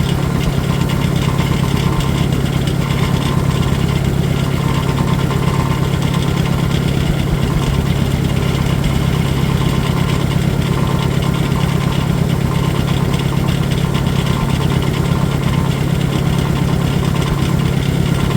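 Farmall 400 tractor engine idling steadily, with an even low pulsing.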